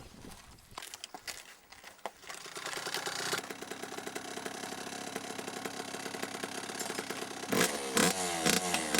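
KTM 65 two-stroke motocross bike engine running steadily from about two seconds in. Near the end it is revved up and down several times.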